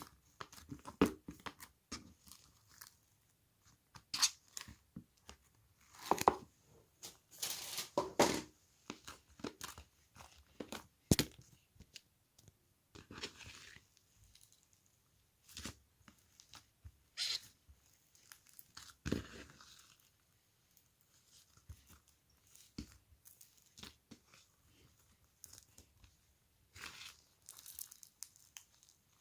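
Irregular crisp crunching and tearing sounds, as of something being bitten and chewed close to the microphone.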